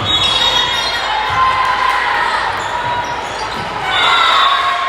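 Basketball game play on a gym court: a ball bouncing on the floor amid players' and spectators' voices.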